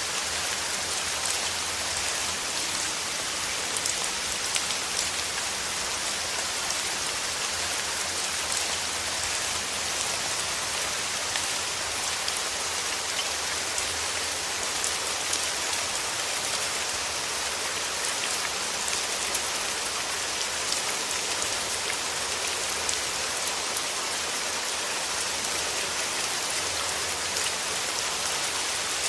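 Steady rain falling, a dense even hiss of drops with fine individual drop ticks.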